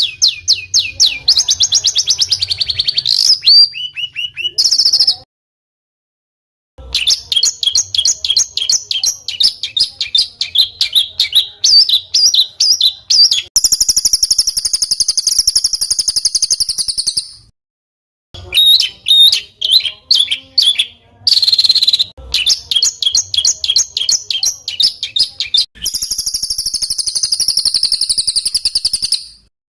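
Small songbird singing fast, harsh rolling trills of tightly packed repeated notes, the 'roll rapat kasar' style used as tutor song for competition birds. The phrases are spliced together with abrupt silent breaks, with a long buzzy trill about 14 seconds in and another near the end.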